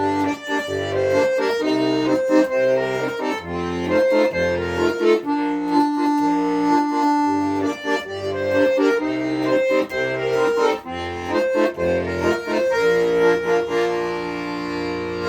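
Accordion playing an instrumental passage: a melody and chords over a bass line of short separate low notes, settling onto a long held chord near the end.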